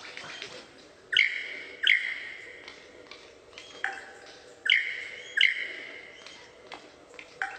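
A bird giving short, loud calls in pairs, two pairs about three seconds apart, each call starting sharply and fading, with softer single calls between.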